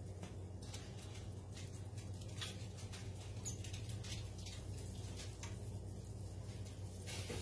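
Quiet, scattered crackling of floured cube steak frying in shallow oil in a cast-iron skillet, over a steady low hum.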